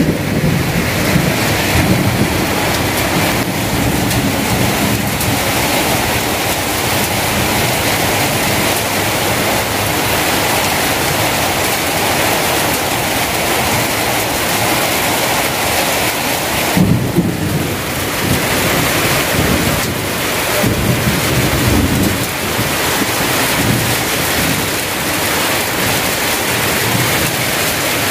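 Heavy monsoon downpour: a loud, steady rush of rain falling on tarpaulins and tin stall roofs.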